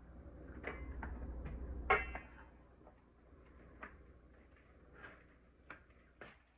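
Scattered knocks and clicks of potato pieces going into the soup pot and being handled in it, the loudest about two seconds in, over a low hum for the first two seconds.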